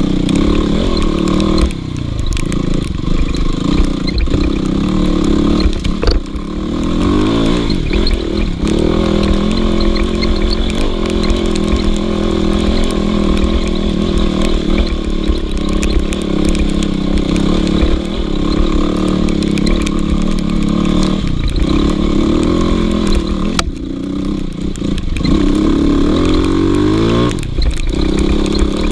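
Dirt bike engine under way, running hard. It revs up and down: the throttle drops off briefly several times and the pitch climbs as it picks up speed about a quarter of the way in and again near the end.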